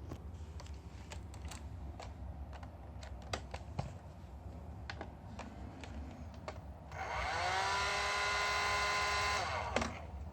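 Hair dryer run from a portable power station: after several clicks of handling, it is switched on about seven seconds in, its fan motor whine rising quickly in pitch and then holding steady over the rush of air, and it stops after about two and a half seconds with a click.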